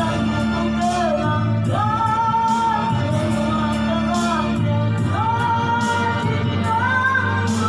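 Male rock-ballad singer holding long, high sustained notes, two of them each lasting about three seconds, over band accompaniment with drums.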